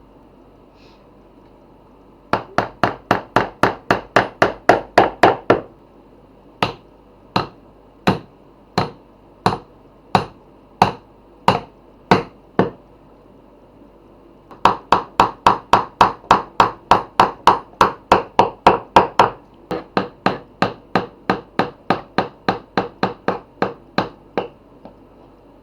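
Hammer strikes on wood in runs. A quick series of about five blows a second comes first, then slower single blows about one every 0.7 s. After a short pause there is another fast series that eases to about three blows a second near the end.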